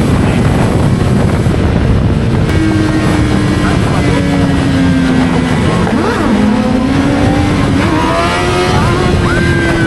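Motorcycle engines running in a loud, steady rumble, their pitch sliding down and then rising again as the bikes ease off and accelerate.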